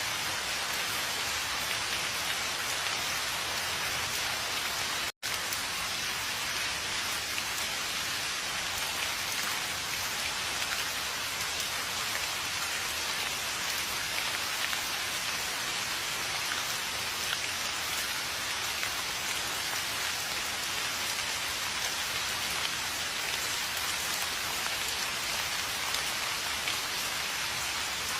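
Steady, even rain falling, a dense hiss of drops with no distinct patter or thunder. The sound cuts out completely for an instant about five seconds in, then carries on unchanged.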